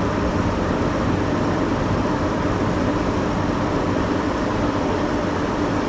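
Steady hum inside a car's cabin: the engine running and the air-conditioning blower going, level throughout.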